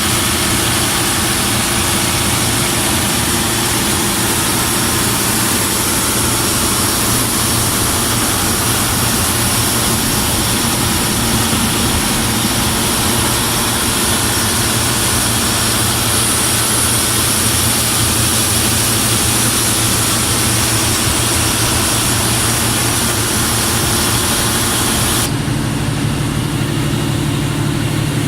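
Mitsubishi 600 kW diesel generator set running steadily: a loud, even engine drone with hiss reaching high up. About three seconds before the end the sound changes abruptly, the high hiss dropping away and the low engine note shifting.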